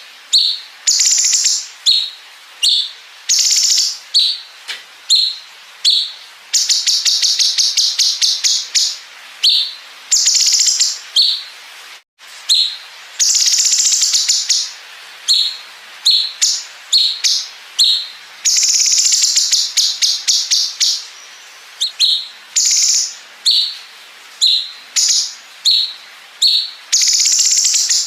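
Cucak cungkok singing loudly in a long run: short high chirps repeated again and again, broken by rapid machine-gun-like rattling trills and longer buzzy phrases.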